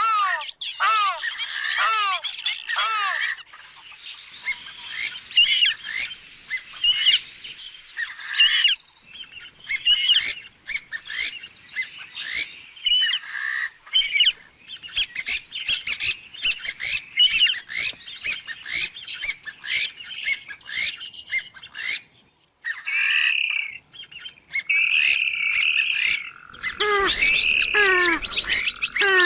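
Purple swamphen calling: a dense, continuous run of loud, repeated call notes, many of them quick downward sweeps, with a brief lull a little past the middle. A steady high tone and a low hum join near the end.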